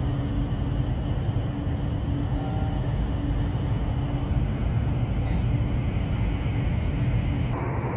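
Running noise of a high-speed train at speed, heard from inside the carriage: a steady low rumble of wheels and air, with a faint steady hum that fades out about halfway through.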